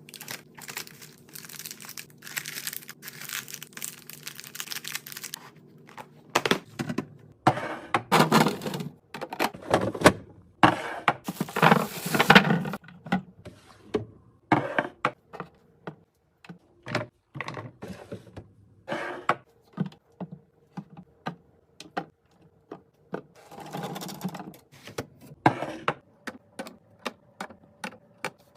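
Fridge restocking: containers and packages being handled and set down, a quick run of clicks and knocks with several stretches of rustling.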